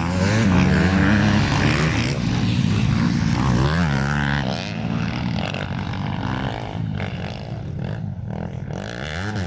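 Several motocross motorcycle engines revving hard and rising and falling in pitch as the bikes ride past, loudest over the first couple of seconds and then fading somewhat.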